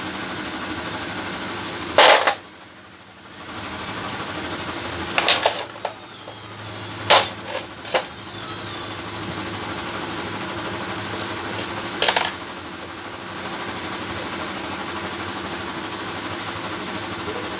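Sharp metallic clinks of small metal parts and tools being handled and set down on a hard surface, about seven over the stretch, over a steady hum.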